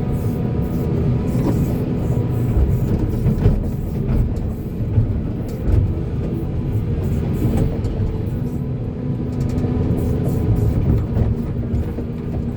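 Volvo excavator's diesel engine running under load, a steady low drone with held tones, with a few brief knocks during the work.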